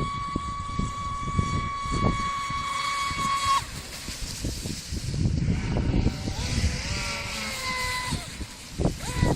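Traxxas Spartan RC speedboat's Leopard 1600kv brushless motor running at speed with a steady high whine, which cuts off abruptly a few seconds in. The whine comes back with shifting, falling pitch as the boat throttles up and down, over a low rumbling noise.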